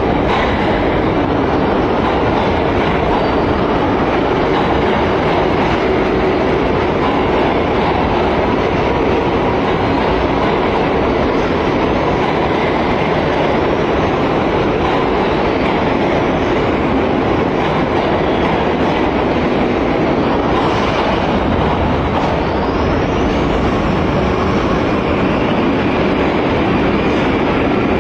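New York City subway train running, a loud, steady rumble and rattle of the cars on the rails.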